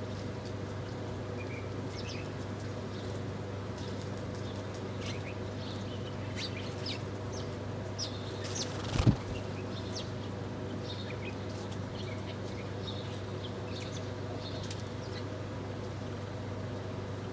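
Small birds at a feeder chirping in short, scattered calls over a steady low hum, with one brief, loud flurry of noise about halfway through.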